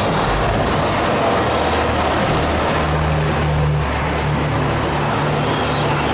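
Train moving along the platform: a loud, steady rushing rumble with a low drone that strengthens about two and a half seconds in.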